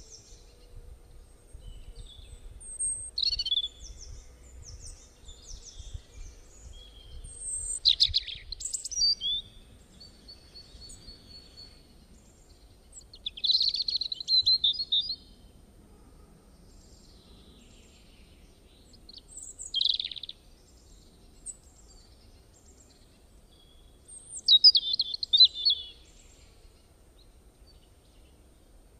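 Wild birds calling in short bursts of high chirps every few seconds, over a faint low rumble.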